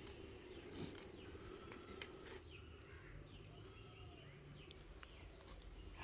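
Faint outdoor ambience with small birds chirping in short, quick calls, and a few light clicks.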